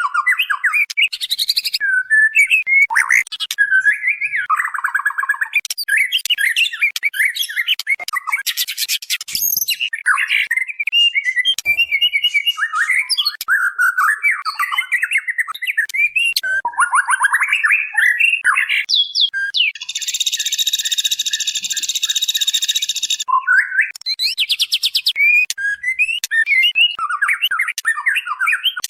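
White-rumped shama calls: a fast, varied run of whistled and chattering notes with quick trills, the calls of a female calling to a male. About two-thirds of the way through comes a harsh buzzing rattle lasting about three seconds.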